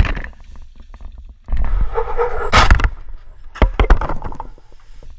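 Motorcycle crash heard through a helmet camera's wind-buffeted microphone: a noisy rush about a second and a half in ending in a loud crack, then a quick cluster of sharp knocks and thuds.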